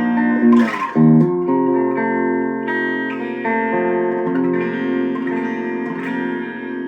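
Electric guitar, an Epiphone Les Paul Special II, played through a Boss Katana Mini amp on its clean channel with the tone selector on treble. Chords are strummed, with fresh strums about a second in, then held and let ring while single notes change within them.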